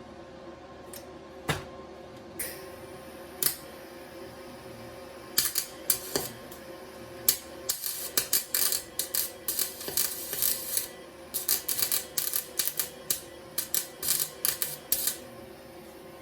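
Wire-feed (MIG) welder with a steady electrical hum; from about five seconds in the arc crackles and sputters in short, uneven bursts for about ten seconds, then stops. The owner says the wire feed on this new machine is catching.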